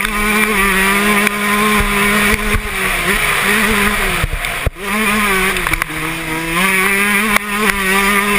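Yamaha YZ125 two-stroke motocross engine held at high revs under throttle, with small wavers in pitch. About halfway through the throttle is chopped and the note drops sharply, then it picks up and pulls high again, falling off right at the end.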